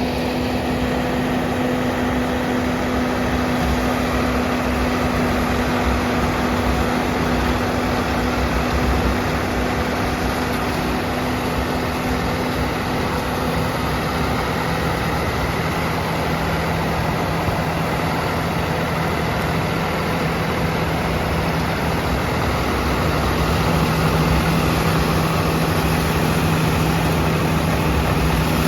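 Swaraj 969 FE tractor's diesel engine running steadily under a constant drone. Its steady hum drops to a lower pitch about halfway through and grows a little louder near the end.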